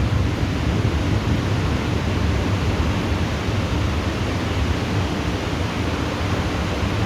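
Heavy thunderstorm rain falling steadily, a dense, even hiss over a deep low rumble.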